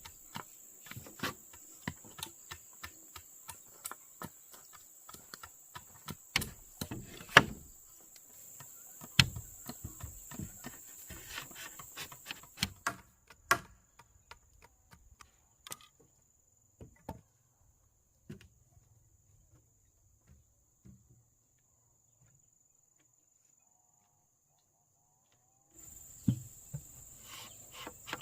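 Irregular knocks and taps of building work with wooden poles, over a steady high-pitched insect drone. About 13 s in, the drone and most of the knocking drop away to near quiet, with only a few scattered taps, and both come back near the end.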